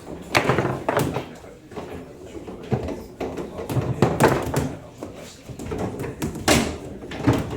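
Table football in play: sharp, irregular knocks and clacks of the ball striking the table's figures and walls as the rods are worked, about a dozen hits with a few hard shots.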